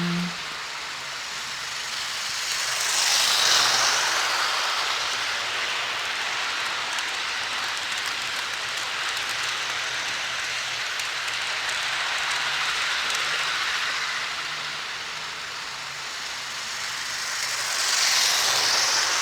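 HO scale model train running on its track: a steady rolling, rattling hiss of wheels and cars with a faint low hum. It swells twice as the train passes close, about three seconds in and again near the end.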